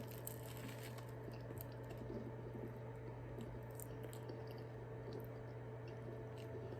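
Faint chewing and small mouth clicks of a person eating a folded avocado and cream cheese toast, over a steady low hum.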